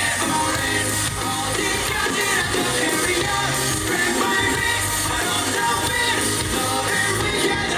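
Live pop-rock band music: drums, bass and guitars playing steadily through a loud concert sound system.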